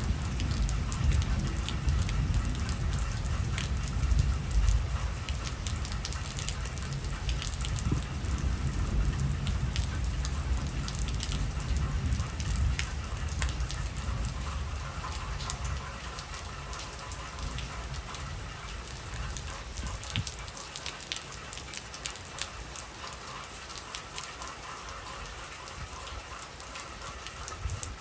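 Heavy rain falling, with scattered sharp ticks of drops striking close by. A low rumble underneath fades away about two-thirds of the way through.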